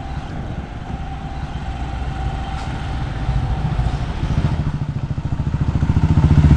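Motorcycle engine running close by, its pulsing note getting louder toward the end as it comes nearer.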